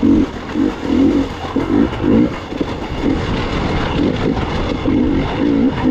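Gas Gas EX 300 two-stroke dirt bike engine revving in short surges as the throttle is worked on and off, over a steady low rumble.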